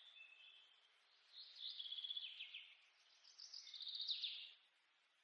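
A songbird singing two faint, trilled phrases of rapid repeated notes and downward-sliding notes, about a second apart, over a soft steady hiss.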